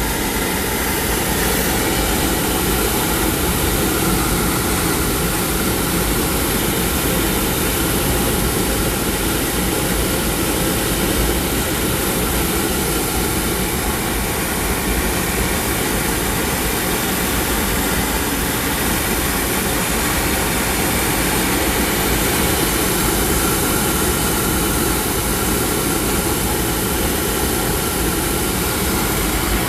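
Oil furnace running with its gun-type oil burner firing: a loud, steady roar that doesn't change.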